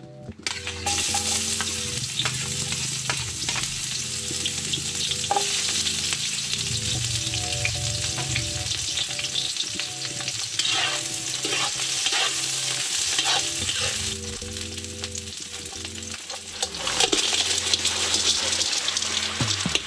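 Sliced shallots and lemongrass sizzling in hot oil in a steel wok, the sizzle starting about a second in. Near the end a load of shellfish is tipped in and the sizzle gets louder.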